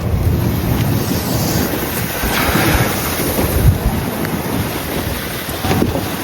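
Strong wind blowing and buffeting the microphone in a blizzard, a loud, steady rush.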